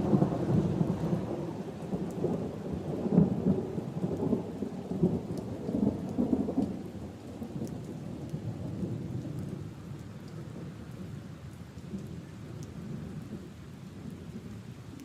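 Steady rain falling on puddles and leaves, with a long roll of thunder that rumbles loudest at the start and dies away over about ten seconds. A few single drips tick through the rain.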